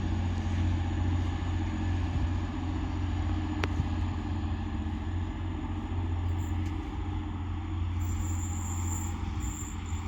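Diesel multiple unit at a station platform idling with a steady low engine drone, and a single click about a third of the way through.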